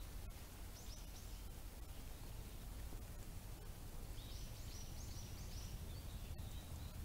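Faint outdoor background hum with a small bird chirping: a few short high notes about a second in, then a quicker run of about six notes around four to five seconds in.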